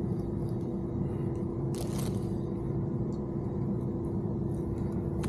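Steady low background hum with a faint constant tone, and one brief sharp click about two seconds in.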